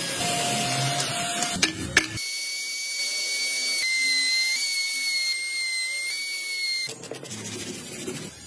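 Rattling and a few sharp clicks, then from about two seconds in a high-speed rotary carving tool whines steadily for about five seconds, its pitch shifting slightly, before it stops.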